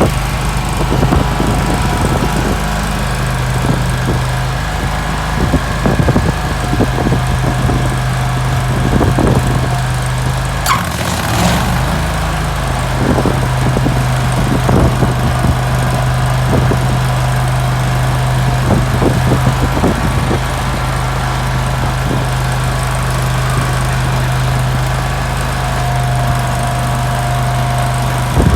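Rayco stump grinder's engine running steadily, with frequent short knocks and clatter over it; the engine's pitch dips briefly about eleven seconds in, then recovers.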